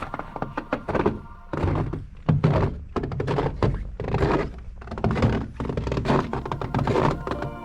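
A rapid, irregular series of heavy thunks and knocks, several a second, with a strong low thud under them.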